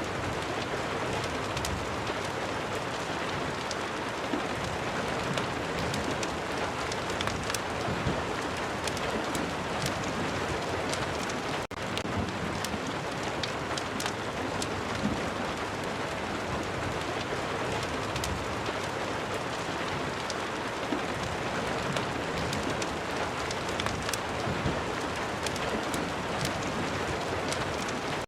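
Steady rain, an even hiss peppered with many small sharp ticks, as in a rain-and-fireplace ambience track. The sound drops out briefly about twelve seconds in.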